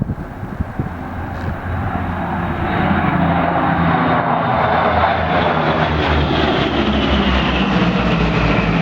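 P-38 Lightning's twin Allison V-1710 V12 engines running as the fighter flies by, growing louder over the first few seconds and then holding a steady, loud drone.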